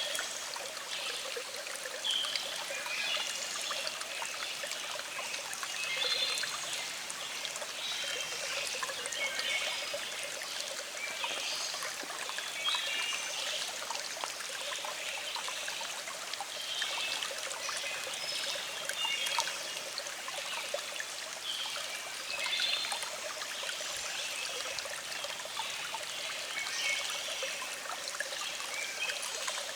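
Small stream flowing over rocks, a steady babbling trickle with irregular gurgles and splashes.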